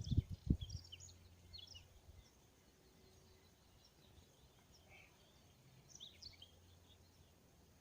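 Small birds chirping in short scattered calls, over a faint steady outdoor background, with a few low thumps in the first second.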